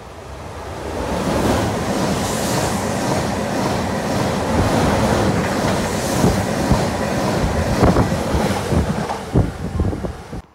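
TILO regional electric train running past close alongside the platform: a loud, steady rush of wheels on rail and moving air that swells over the first second or so. Sharp clicks of wheels over rail joints come in the last few seconds.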